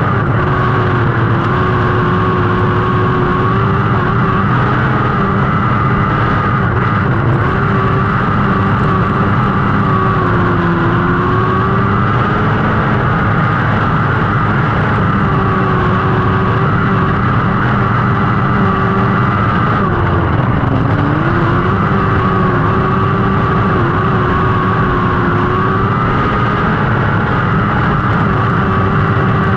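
Lightning sprint car engine running hard at race speed, its pitch holding high and dipping briefly about every five to six seconds.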